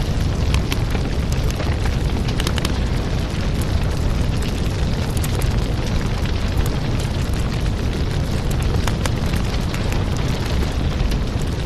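Wood fire crackling in a fireplace: a steady low rush of flame with many sharp, irregular pops and crackles.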